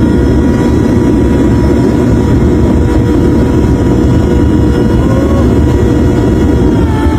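Homemade jet engine running near full power: a loud, steady roar with a steady high whine above it.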